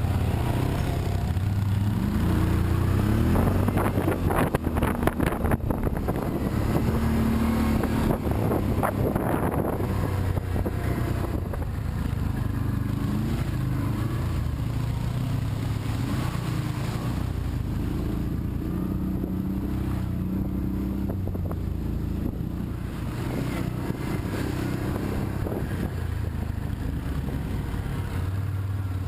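A motor vehicle's engine running steadily, its pitch stepping up and down, with a cluster of clicks and knocks about four to six seconds in.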